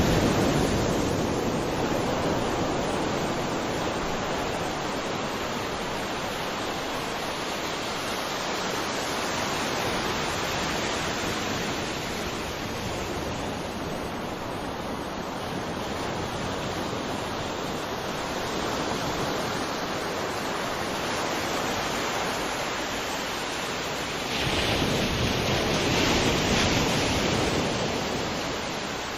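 Ocean surf: a steady wash of waves, with a louder wave breaking at the start and another about 25 seconds in.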